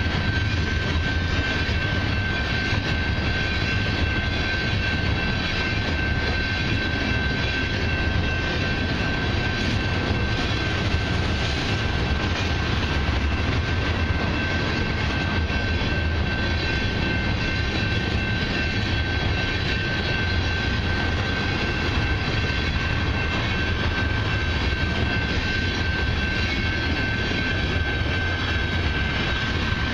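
Loaded crude-oil tank cars of a long freight train rolling through a level crossing: a steady deep rumble of steel wheels on rail. A steady high ringing tone runs over it from the crossing bell.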